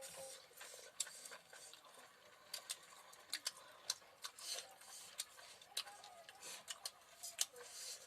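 Close-miked eating sounds: irregular wet clicks and smacks of chewing and the lips, several loud sharp ones in the middle and near the end.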